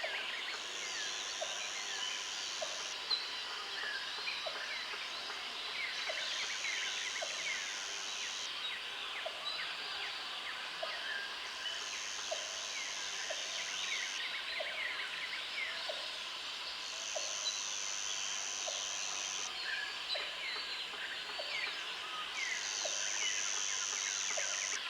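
Country outdoor ambience: many birds chirping and twittering together, with an insect's high buzz coming in spells of about two seconds every five seconds or so. A faint low note repeats about every second and a half.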